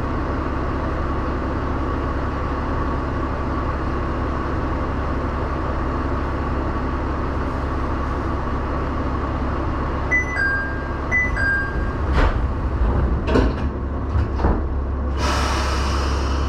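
Diesel railcar engine running steadily at the platform. About ten seconds in, a two-note falling door chime sounds twice, followed by a few knocks as the doors close and a short burst of air hiss near the end.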